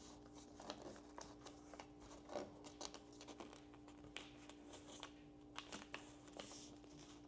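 Faint rustling and crackling of a sheet of A4 paper being handled and creased by hand, a few soft scattered crackles over a faint steady hum.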